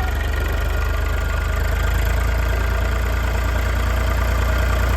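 Diesel engine of heavy farm or construction machinery running steadily at idle.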